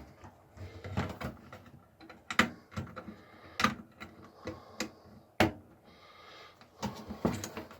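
Irregular clicks, taps and rustling as a floppy drive ribbon cable is tucked and fitted inside a computer case, with about eight sharper knocks spread unevenly.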